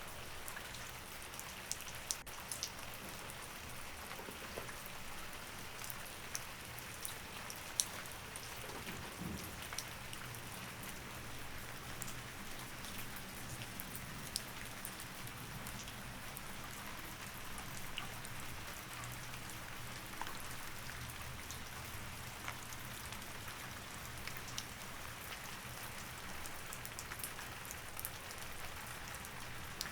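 Steady rain falling, with scattered close drops ticking sharply, over a faint steady low hum.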